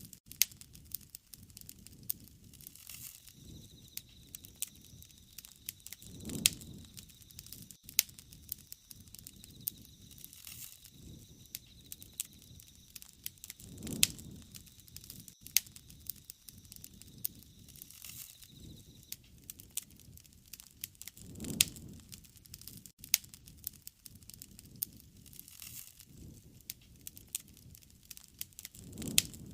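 Wood fire crackling, with frequent sharp pops and snaps and a soft low whoosh that swells about every seven seconds.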